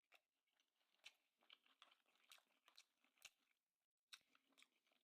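Very faint mouth sounds of someone chewing sushi: a scatter of small, irregular wet clicks and crunches.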